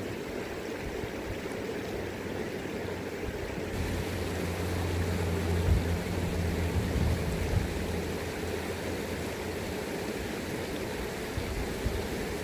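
River water rushing steadily, with a low rumble joining in about four seconds in.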